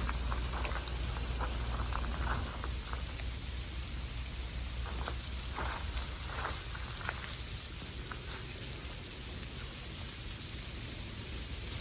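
Light rain shower falling, a steady patter with scattered individual drops ticking on nearby surfaces.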